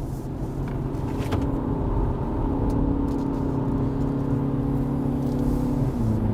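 Hyundai Avante (CN7) four-cylinder engine heard from inside the car, running at steady high revs under load through corners. Its pitch steps up slightly about two seconds in and drops near the end.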